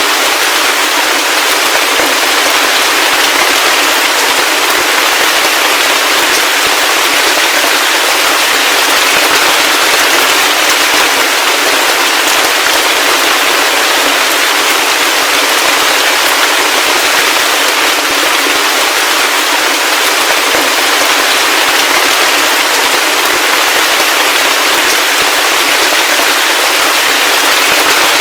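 Heavy rain falling steadily, a dense crackling patter of drops with no let-up, its lowest tones filtered away.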